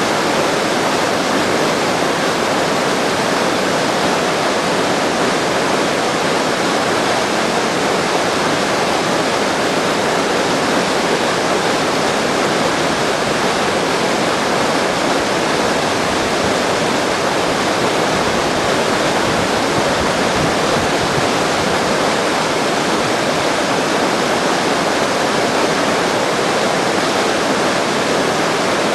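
A steady, even rushing of water, unchanging throughout.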